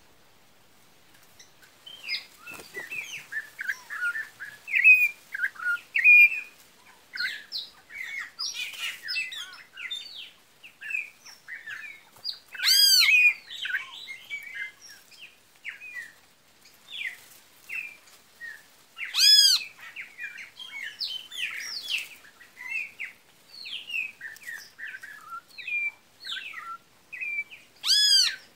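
Songbirds chirping and whistling in a quick, busy run of short notes, starting a second or two in, with three louder arched whistled notes about thirteen, nineteen and twenty-eight seconds in.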